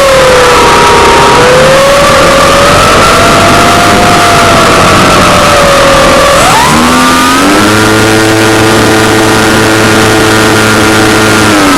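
Loud model aircraft engine running with a wandering pitch; about six and a half seconds in the throttle is opened and the pitch jumps up and holds steady for about four seconds, then falls as it is throttled back near the end.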